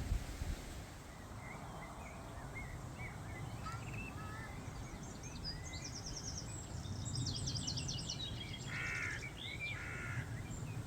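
Garden birds singing and calling, a mix of short chirps, whistled notes and high trills, with two harsh calls near the end, over a steady low rumble.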